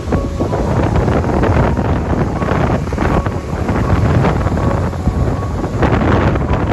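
Strong wind blowing against the microphone over the sea, a continuous rushing noise heaviest in the low end. A faint high whistle comes and goes through it.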